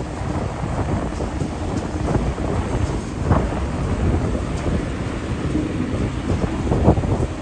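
Low rumble of a Boeing 747's jet engines at takeoff power, with wind buffeting the microphone in gusts.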